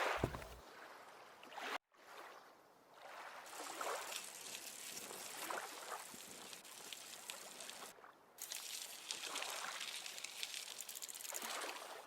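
Lake water lapping and trickling in soft swells every second or two, cutting out briefly about two seconds in.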